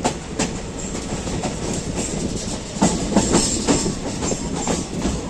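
Passenger train running, with a steady rumble and wheels clattering over rail joints; the clatter grows louder about three seconds in.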